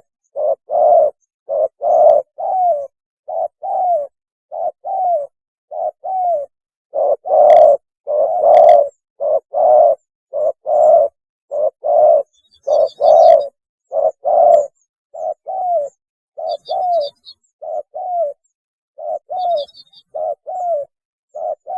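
Spotted dove cooing over and over in its mating call, a run of short hoarse coo phrases, some notes ending in a falling slur. Faint high chirps of a small bird come in a few times during the second half.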